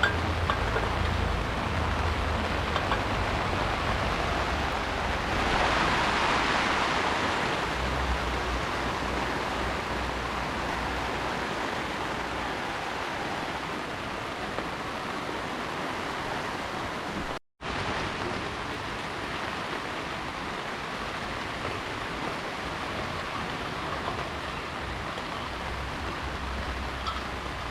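Heavy rain pouring steadily, swelling briefly about a fifth of the way in. The sound cuts out for an instant about two-thirds of the way through.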